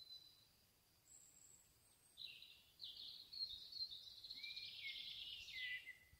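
Small songbird singing faintly: a short high note, then from about two seconds in a long rapid warbling trill ending in a few lower whistled notes.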